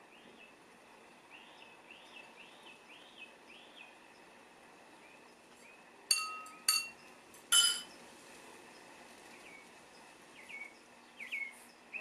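Small wild birds chirping against a faint outdoor hiss: a run of short, quick, arched chirps, then three much louder sharp notes about six to eight seconds in, and a few falling chirps near the end.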